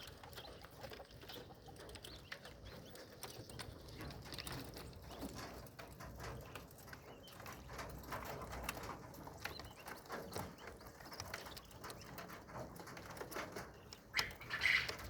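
Laying quails calling softly among scattered small clicks and taps, with one louder call near the end.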